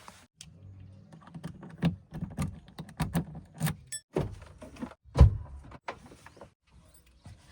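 Irregular series of knocks and clunks over a low rumble, with one heavy thud about five seconds in.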